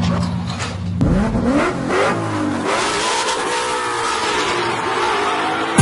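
A car engine revving and accelerating: a steady low note, then its pitch climbs in rising sweeps about a second in, giving way to a rushing noise with a slowly arching pitch.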